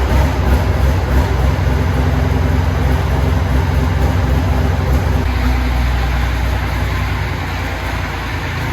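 A large vehicle engine running steadily, easing off slightly about five seconds in.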